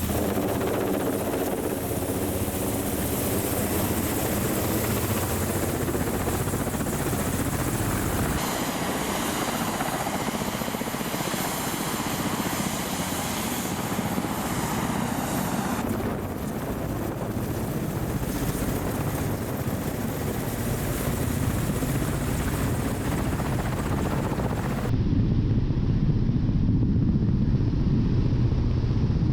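Military attack helicopters in flight: steady rotor and turbine engine noise that changes character abruptly a few times. Near the end it turns to a duller, louder low rumble with the high end gone.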